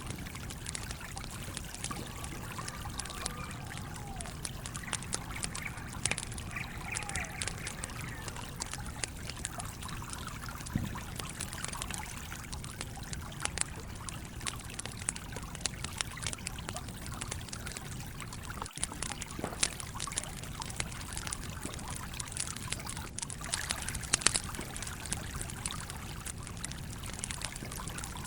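Campfire crackling with frequent sharp pops, over the steady rush and trickle of a flowing stream.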